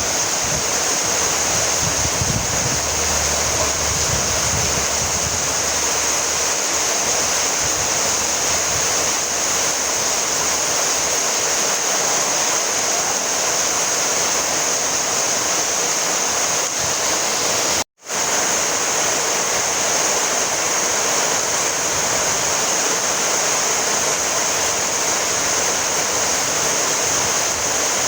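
Steady rainfall, an even hiss with a bright high edge. About two-thirds of the way through it cuts out completely for a split second, then carries on as before.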